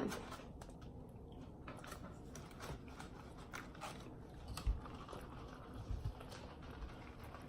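Faint sounds of someone chewing and biting into food, with scattered small clicks and a couple of light knocks a little past halfway.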